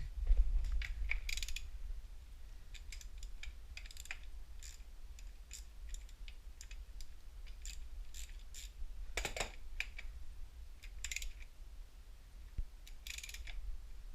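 Irregular metallic clicks and clinks of tools and metal parts being handled during motorcycle wheel-bearing work, over a steady low hum.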